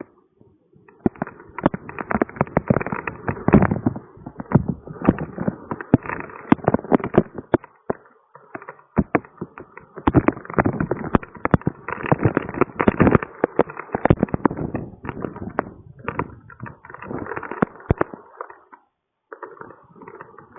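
Storm rain with heavy drops striking close to the microphone in a dense crackle, coming in gusty surges with short lulls about eight seconds in and near the end.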